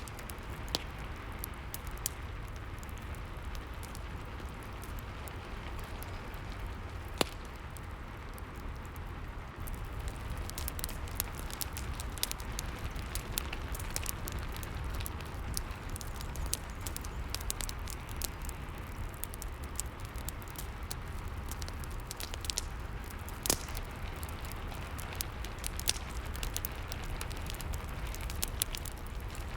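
Rain and fireplace ambience: a steady hiss of rain with a low rumble, over which a wood fire crackles with frequent small pops, a few louder ones standing out. The crackling grows busier about a third of the way in.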